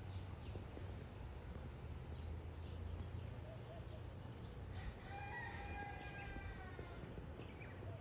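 A rooster crowing once, one long call about five seconds in, with faint short bird chirps around it and a low steady hum underneath.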